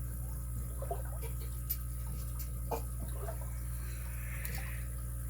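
Scattered small clicks and taps of tools and small metal parts being handled, over a steady low electrical hum.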